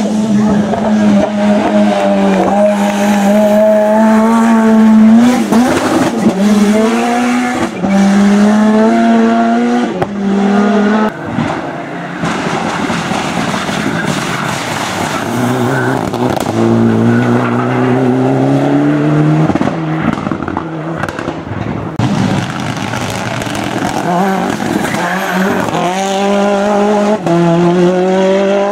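Racing car engine at hard throttle on a hillclimb, its revs climbing again and again and dropping sharply at each gear change or lift. Near the middle the engine note turns rougher for a few seconds, then picks up again from lower revs.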